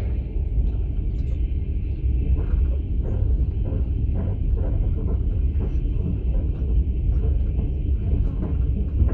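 Steady low rumble of a passenger train under way, heard from inside a platzkart sleeper carriage, with faint irregular knocks and rattles.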